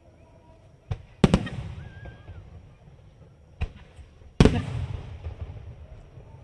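Aerial fireworks bursting overhead. There are two loud booms, about a second in and again past four seconds, each just after a smaller report, and each leaves a long rumbling echo that dies away.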